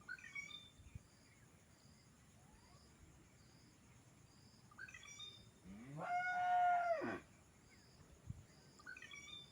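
A songbird repeating a short phrase of quick high notes three times, about every four and a half seconds. About six seconds in, a louder drawn-out animal call rises from low pitch and then holds for about a second. A faint insect pulses steadily underneath.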